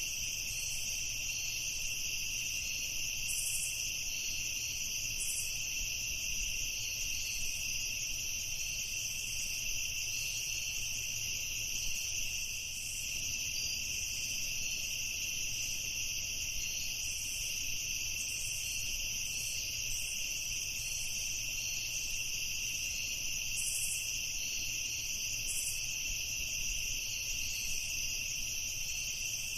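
Night insect chorus of crickets trilling in a steady, unbroken high drone. A few brief, higher chirps stand out now and then.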